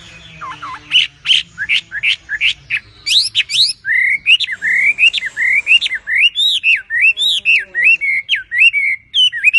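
Chinese hwamei singing loudly: a quick series of sharp upswept notes, then from about three seconds in a long run of looping, whistled phrases repeated over and over.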